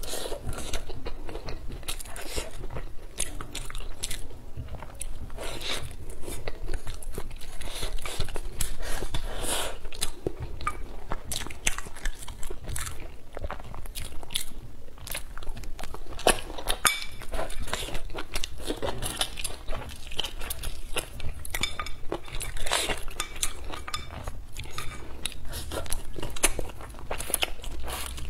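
Close-up eating sounds: a person biting and chewing mouthfuls of rice, braised potato and green chilies, with a rapid, continuous run of crunchy clicks and crackles.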